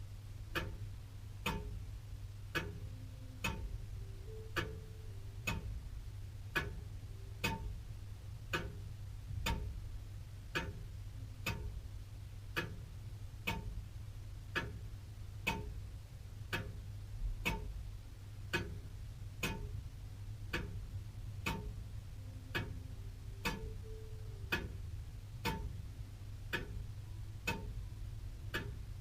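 Antique William Holliwell, Liverpool, clock ticking steadily, about one tick a second, over a faint low hum.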